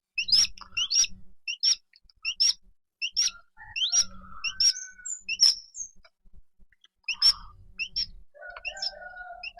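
A bird chirping over and over: short, high, two-note chirps several times a second, with a few lower, longer whistled notes in the middle and near the end.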